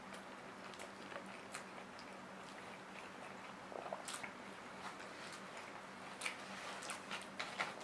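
Faint close-up mouth sounds of a person chewing soft braised pork and rice eaten by hand: scattered small wet smacks and clicks, a few a second, over a faint steady hum.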